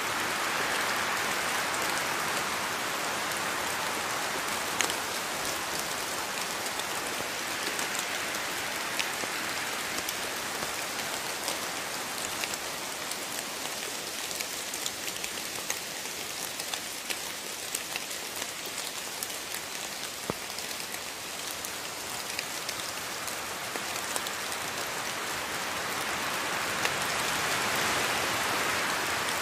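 Steady rain falling in a forest, an even hiss with many sharp drops striking close by, swelling a little near the start and again near the end.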